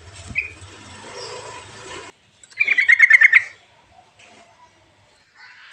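Yellow-vented bulbul (trucuk) song: one short note, then a loud, rapid run of about ten bubbling notes lasting under a second near the middle. Underneath is a hissy background with a low hum that cuts off suddenly about two seconds in.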